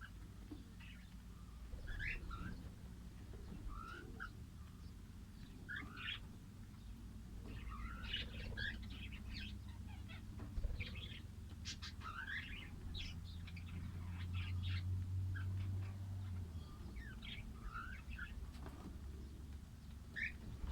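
Small pet parrots (lovebirds, cockatiels and budgerigars) chirping and squeaking in short, irregular calls, some of them sliding in pitch, over a steady low hum that grows louder for a couple of seconds past the middle.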